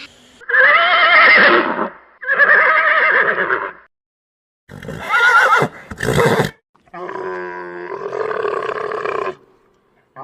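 Horse neighing: about four separate whinnies with short silent gaps between them.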